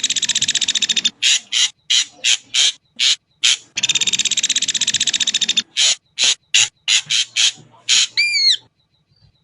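Ashy drongo calling: a string of short harsh notes broken by two long buzzing rattles of about two seconds each, ending near the end with a few quick curved whistled notes before it stops.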